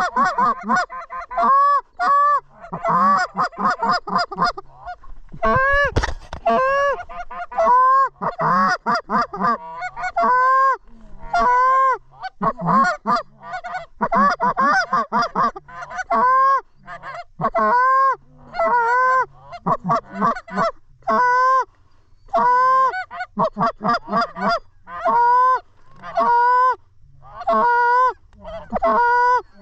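Goose honking: a long string of short honks, dense and overlapping at first, then coming more evenly, one or two a second. A single sharp knock about six seconds in.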